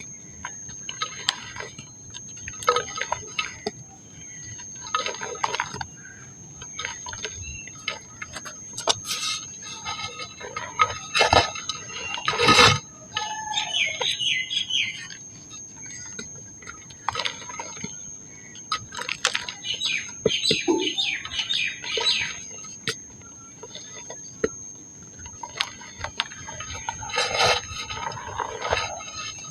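Dry pink mud crumbling and being crushed, in repeated gritty, crackling bursts every second or two, with a steady faint high-pitched tone underneath.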